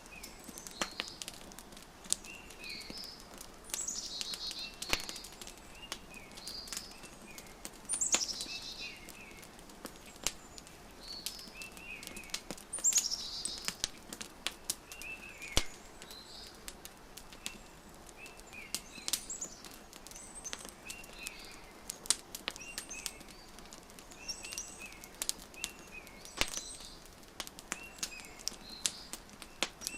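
Wood fire crackling with scattered sharp pops, under songbirds chirping and singing short phrases every few seconds.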